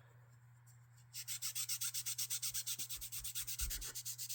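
Rapid back-and-forth rubbing strokes, about seven a second, starting about a second in: the knife's handle scales being polished by hand.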